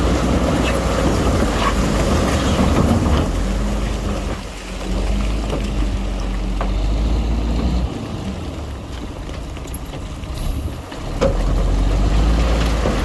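Heavy diesel earthmoving machinery running, its engine note rising and falling as the load changes, with a deep rumble of wind on the microphone.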